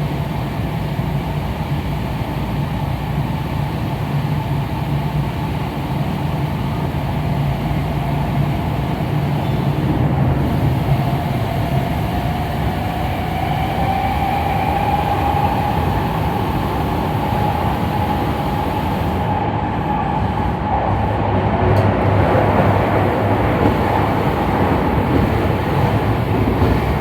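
Tokyu Den-en-toshi Line electric train running on the rails, with a steady rumble of wheels and running gear. A motor whine rises slowly in pitch from about a third of the way in, as the train gathers speed.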